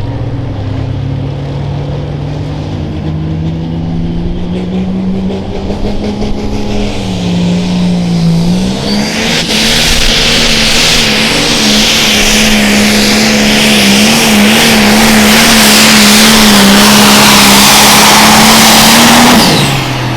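Turbocharged diesel pro stock pulling tractor making a pull. The engine's pitch climbs steadily, dips briefly about eight seconds in as it takes the load, then holds at high revs and grows louder. Near the end the throttle is cut and it drops back to idle.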